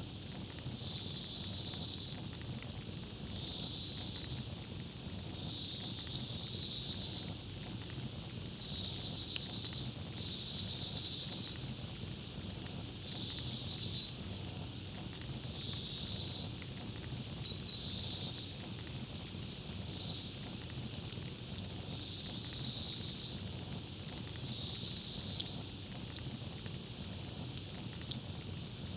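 Campfire crackling steadily with frequent sharp pops, under a high chirping call repeated every second or two and a few brief higher bird chirps.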